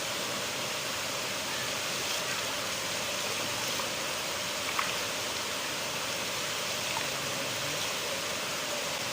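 A river flowing: a steady rush of water, with one brief faint tick about halfway through.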